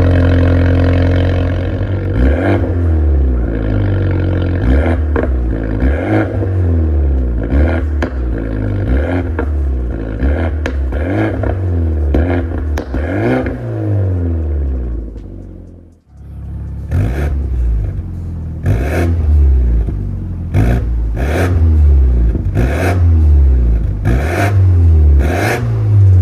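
BMW X4 xDrive28i's N20 turbocharged four-cylinder engine through an MS-R valved cat-back exhaust, its pitch climbing and falling again and again at about one rise a second. After a brief lull partway through, sharp cracks come from the exhaust with each rise.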